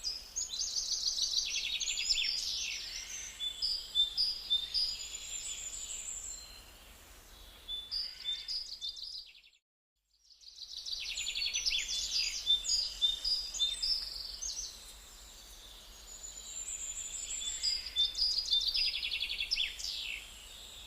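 Small birds chirping in fast, high-pitched runs of repeated notes. The chirping drops out to silence for about a second a little under ten seconds in, then resumes.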